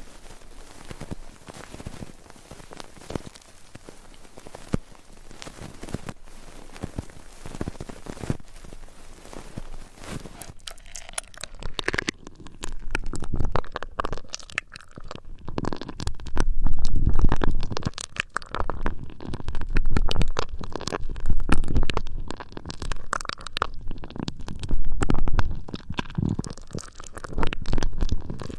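Close rubbing and scratching on an ASMR ear microphone. It starts as fine crackling, then from about twelve seconds in turns into louder, deeper rubbing strokes that swell and fade every second or two.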